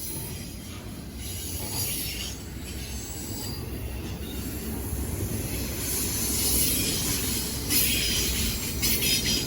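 Union Pacific train's cars rolling by on the rails: a steady low rumble with intermittent high wheel squeal, growing louder, with the strongest squeal near the end.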